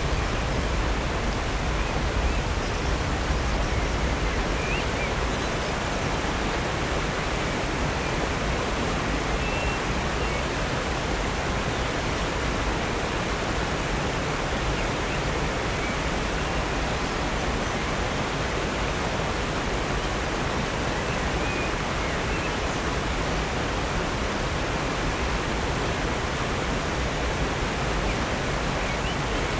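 Steady, even rush of water from Upper North Falls and Silver Creek, with a few faint, short bird chirps now and then.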